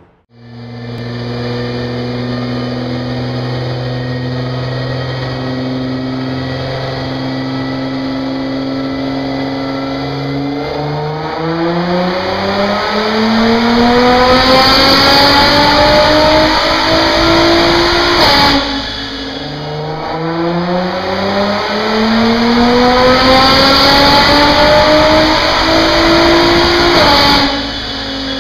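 Stage 1 tuned Nissan GT-R R35's twin-turbo 3.8-litre V6 on a chassis dyno with an aftermarket exhaust, midpipe and downpipe. It runs steadily for about ten seconds, then makes two full-throttle dyno pulls, the engine note rising for about seven seconds each time and cutting off suddenly at the top.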